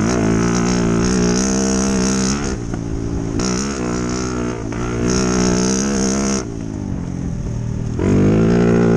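Dirt bike engine running as it is ridden, the throttle opened and eased off three times. The longest let-off lasts over a second near the end, before the engine picks up again.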